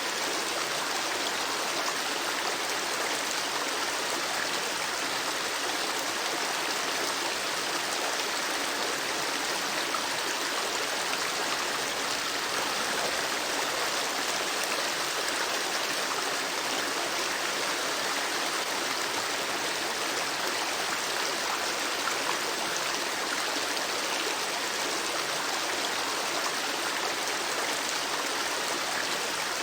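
River water flowing steadily: an even, unbroken sound of moving water with little deep rumble.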